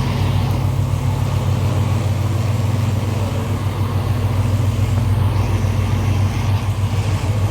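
Car engine running steadily with a constant low drone and no revving.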